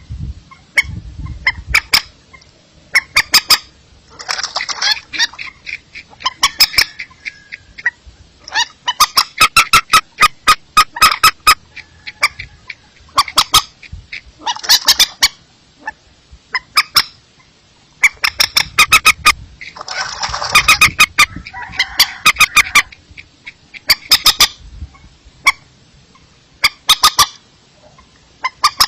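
Recorded lure call of a rice-field bird: loud, sharp pitched notes in quick runs, repeated in bursts every second or two, with a few longer, harsher phrases among them.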